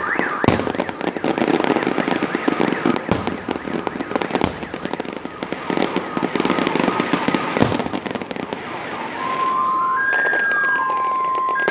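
Aerial fireworks going off: dense crackling with several sharp bangs through the first eight seconds. From about nine seconds in, a two-tone alarm sounds, switching back and forth between a low and a high pitch.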